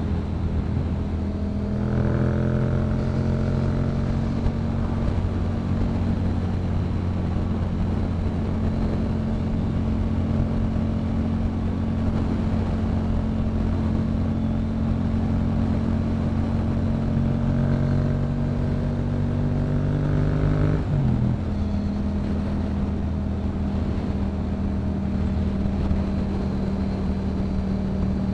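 Yamaha MT-07's 689 cc parallel-twin engine through a Yoshimura exhaust, pulling steadily at cruising speed with its note slowly climbing. About three quarters of the way through, the pitch drops suddenly as the bike shifts up a gear, then the note holds steady. A constant rush of wind runs underneath.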